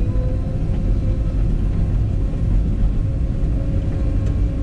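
Cat 314E excavator's diesel engine running steadily: a loud, low, even rumble with a faint steady whine above it.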